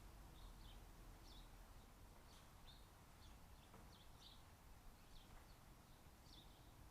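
Faint, short, high chirps from small birds, repeated irregularly over a low background hiss.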